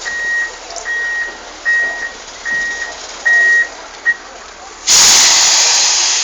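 Truck's reversing alarm beeping, one steady high beep about every 0.8 seconds, stopping about four seconds in. About a second later comes a loud hiss lasting about a second and a half.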